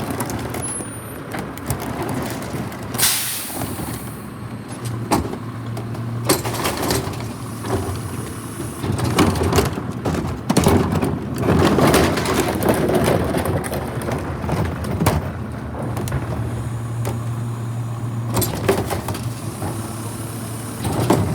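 Garbage truck engine running steadily, with an air-brake hiss about three seconds in and clattering knocks through the middle of the stretch.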